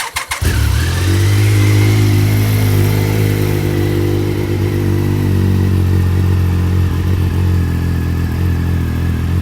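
Triumph Sprint ST 955i's three-cylinder engine starting through a TOR (Triumph Off Road) exhaust end can: a brief crank, then it catches about half a second in and settles into a steady idle.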